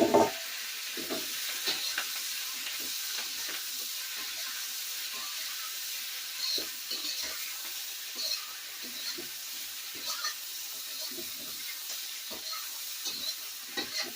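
Bok choy stems frying in hot oil with garlic and ginger: a steady sizzle, with a spatula scraping and knocking against the pan as they are stirred. A loud clatter comes right at the start.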